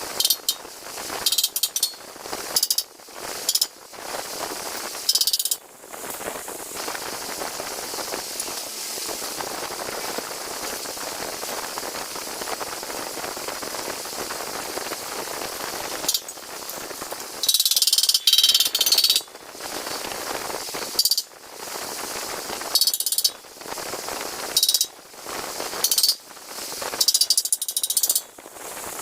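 Workshop metalworking noise: a tool working on metal in repeated short, loud, hissy bursts, with a steady mechanical background running between them.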